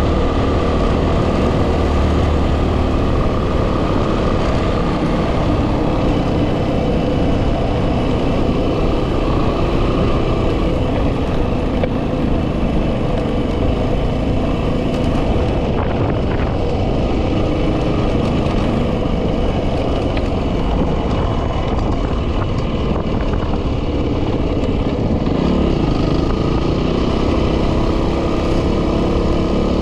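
Yamaha WR250R's stock single-cylinder four-stroke engine running steadily under way, with heavy wind noise on the microphone; near the end the engine pitch rises.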